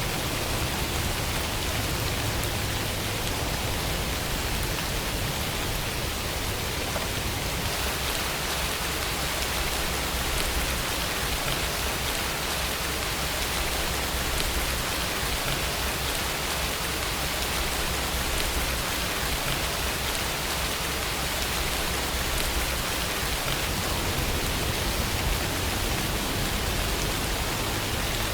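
Steady heavy rainfall with a low rumble underneath.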